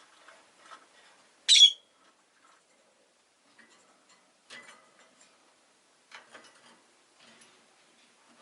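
Rosy-faced lovebird giving a single short, loud, shrill chirp about a second and a half in, amid faint scattered ticks and rustles.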